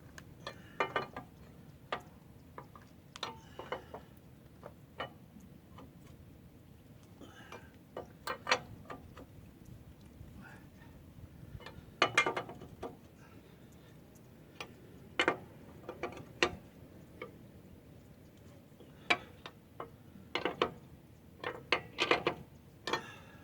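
Irregular metallic clicks and clinks, a few with a short ring, typical of hand tools being handled during brake work on a pickup.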